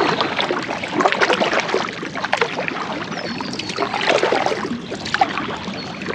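Kayak paddle strokes: the blades dipping and splashing in the water in a steady rhythm, about one stroke a second.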